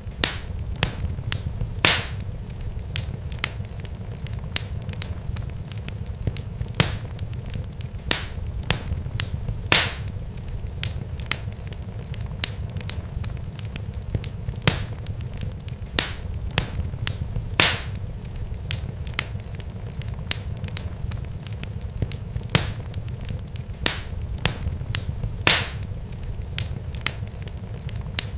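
Fire crackling: a steady low rumble with frequent sharp pops, and a louder pop about every eight seconds.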